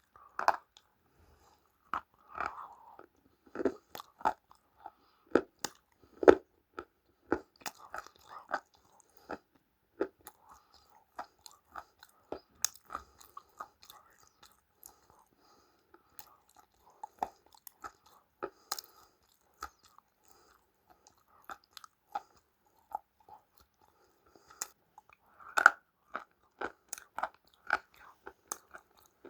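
A person biting and chewing crunchy food close to the microphone: sharp, irregular crunches, frequent in the first several seconds, sparser through the middle, then picking up again near the end.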